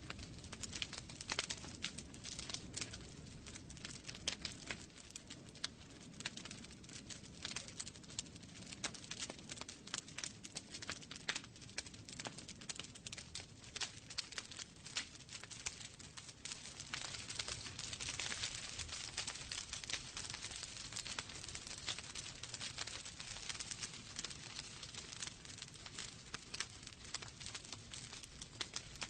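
Wood fire crackling in a fireplace: many irregular sharp pops and snaps over a soft hiss, the hiss swelling briefly about two-thirds of the way through.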